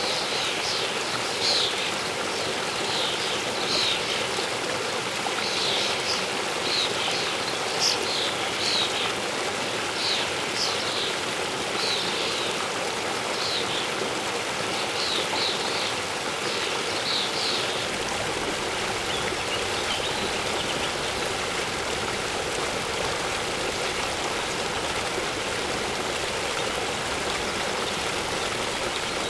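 Waterfall and stream water rushing steadily. Over it a bird gives short, high chirps again and again, falling silent a little past halfway.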